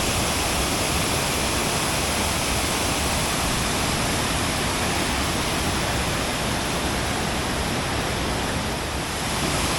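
Waterfall: a powerful cascade of water pouring down several rock steps, a steady, even rush of falling water.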